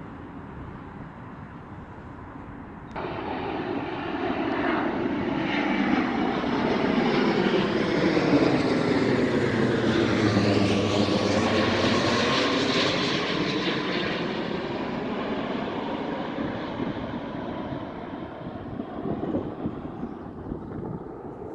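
An airplane flying over. Its engine noise jumps louder about three seconds in, swells to a peak around the middle with a sweeping, phasing sound, then slowly fades.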